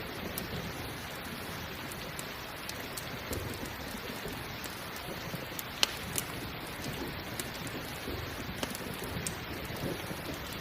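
Steady rain with the sharp pops and crackles of a campfire scattered through it, one louder pop about six seconds in.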